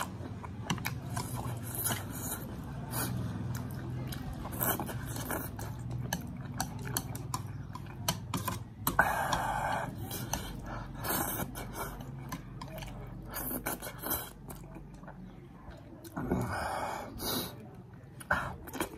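Close-miked chewing and mouth smacking as a person eats a green chilli and spicy instant noodles, with many small wet clicks and two longer noisy bursts, about nine and sixteen seconds in.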